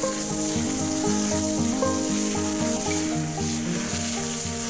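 Pieces of hare sizzling in boiling sunflower oil in a kazan lid used as a frying pan, just after going in, with background music of held, changing notes over it.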